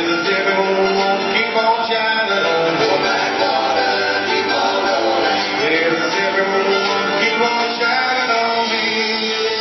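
Live rock band playing a song, full band sound.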